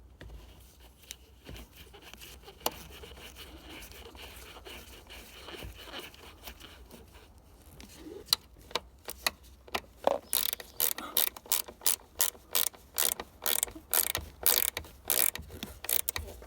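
Ratchet wrench clicking as the bolts holding a Mercedes door check strap are tightened back down, in a fast regular run of about three clicks a second from about ten seconds in, after faint scattered clicks of handling.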